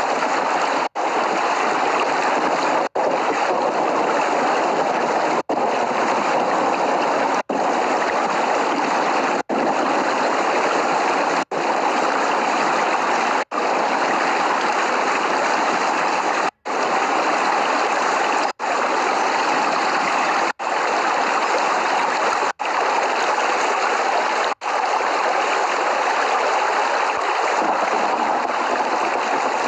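Steady, even rain noise with no thunder, interrupted by brief silent dropouts roughly every two seconds.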